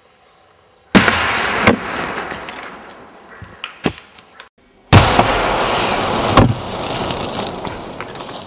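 Fireworks packed into a vacuum cleaner going off: a sudden blast about a second in, then hissing and crackling with sharp bangs. After a brief gap comes a second sudden blast with more bangs, its hiss slowly fading.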